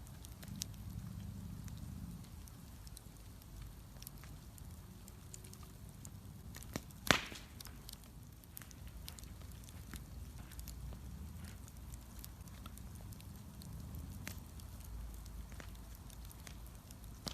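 Wood bonfire crackling with scattered small pops and one sharp, much louder pop about seven seconds in, over a low steady rumble.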